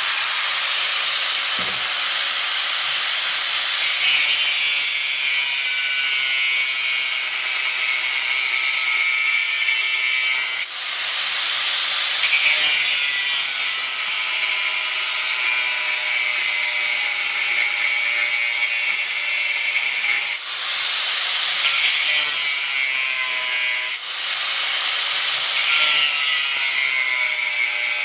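A power tool working steel plate, running continuously with a harsh, hissing cutting sound whose pitch sags and recovers under load, easing off briefly three times.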